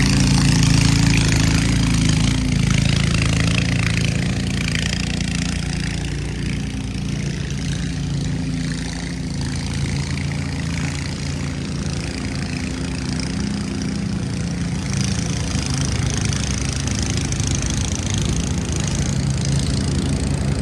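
A motor vehicle's engine idling steadily over a hiss of street noise; its low hum is strongest at first and weakens after a few seconds.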